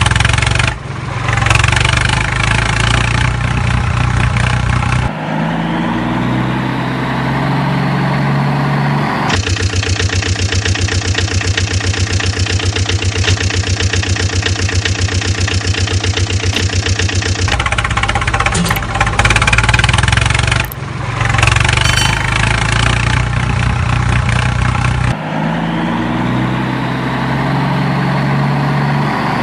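Vehicle engine sounds in a repeating sequence: a pitch that climbs in steps, as in revving through gears, and a steady, evenly pulsing idle in the middle. The same pattern starts over about halfway through.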